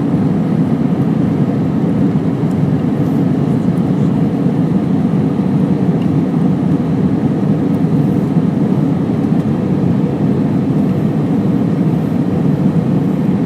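Steady low rumble of jet engine and airflow noise inside the cabin of an Airbus A319 in flight.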